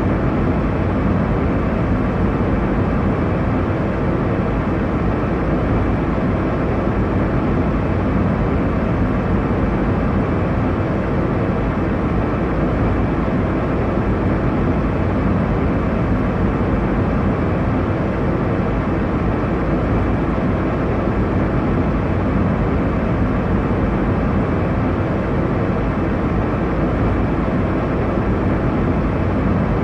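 Airliner cabin noise in cruise: a steady, even rumble and hiss from the engines and the air rushing past the fuselage, heaviest in the low end and unchanging throughout.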